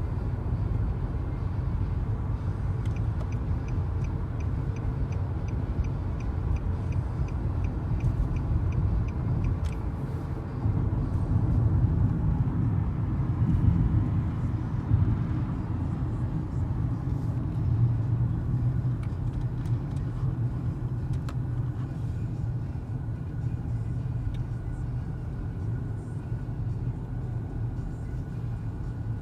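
Car on the move: a steady low rumble of road and engine. For several seconds near the start, a regular ticking comes about two to three times a second.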